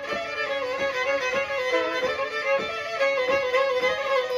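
Black Sea kemençe, the small three-string bowed fiddle, playing a quick instrumental passage, its melody running over a steady held drone note.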